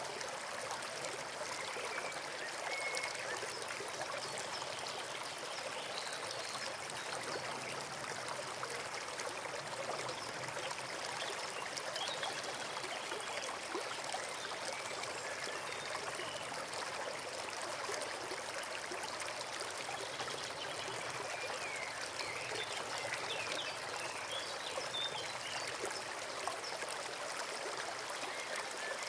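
Forest stream flowing steadily, a continuous trickling and babbling of water.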